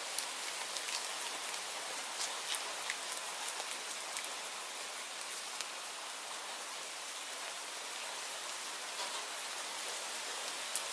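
Steady rainfall: an even hiss with scattered sharp ticks of single drops.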